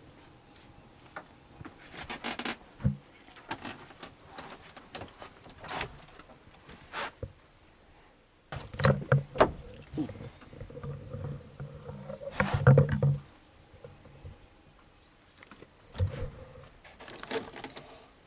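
Scattered knocks, bumps and rustling, with two stretches of heavier thumping about nine and twelve seconds in, from people moving about and handling things aboard a small sailboat.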